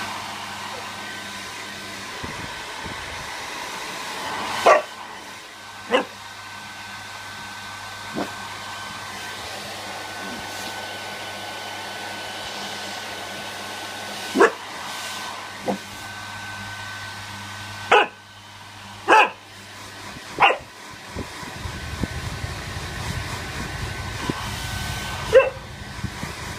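A hairdryer runs steadily with a thin whine while a bullmastiff puppy barks at it about nine times, in irregular single barks and pairs.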